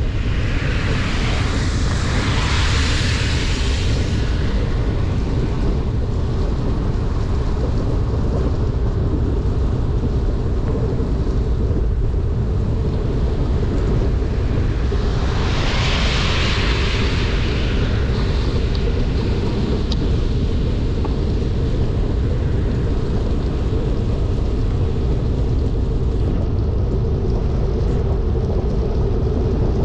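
Steady low rumble of wind buffeting the microphone while cycling downhill in heavy rain, with a rushing hiss that swells up twice, about two seconds in and again around sixteen seconds.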